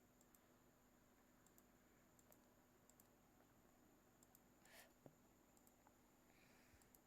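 Near silence: faint room hiss with scattered faint computer mouse clicks.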